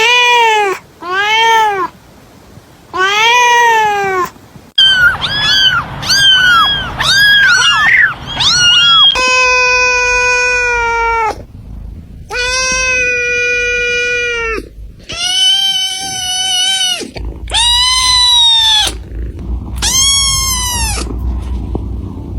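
Domestic cats meowing: a string of separate meows, some short and arched, others long and held, with a quick run of higher-pitched mews about five seconds in.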